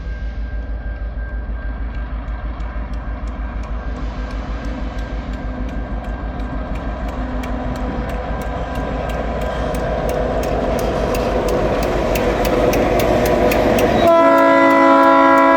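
Level crossing warning bells ringing rapidly while a TasRail diesel locomotive approaches, its rumble growing louder. About 14 seconds in, the locomotive's multi-tone horn sounds loudly and holds.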